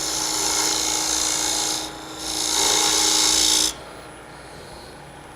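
Spindle gouge cutting straight into a spinning hard maple tenon on a wood lathe: two hissing cuts, the first ending about two seconds in and the second ending a little before four seconds, after which the cutting stops.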